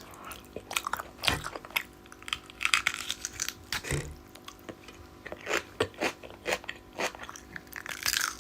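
A person chewing and biting food close to the microphone, with many short, sharp, irregular mouth sounds.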